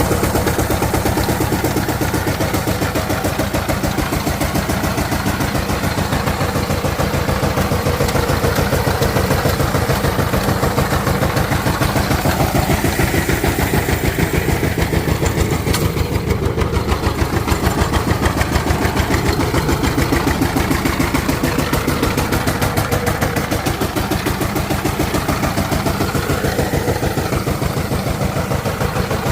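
Power tiller's diesel engine running steadily, with a fast, even beat that starts abruptly at the outset.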